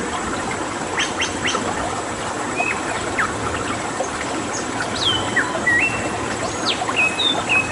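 Wild birds whistling and calling, with short quick notes, a falling whistle and several level held whistles, over a steady rush of flowing water.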